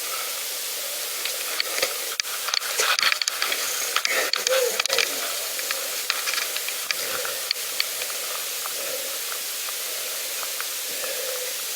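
Bicycle ride along a path: a steady hiss, with a spell of crackling and clicking from about a second and a half to five seconds in and a few scattered clicks a couple of seconds later.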